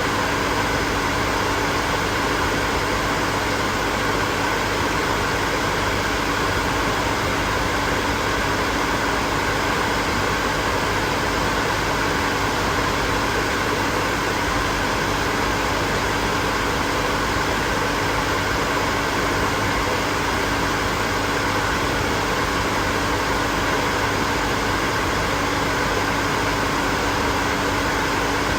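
Hair dryer running steadily: an even rush of blown air with a faint motor hum underneath, unchanging throughout.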